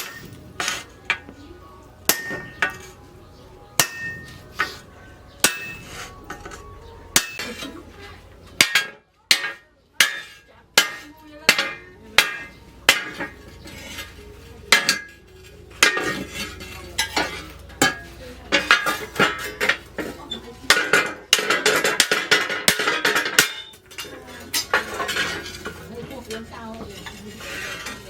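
Hammer blows on steel plough-disc metal, irregular single strikes with a bright metallic ring after each; a quicker, denser run of clinking comes about three quarters of the way through.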